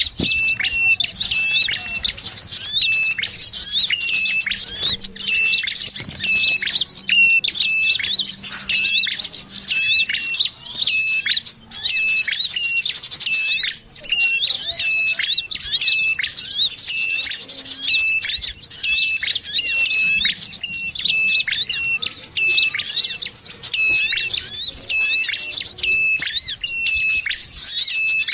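Bird-trapping lure recording of layered small-bird calls: dense, rapid, high chattering (sogon chatter, with red-headed tailorbird and brown-throated sunbird calls) over a short, clear note repeated about twice a second.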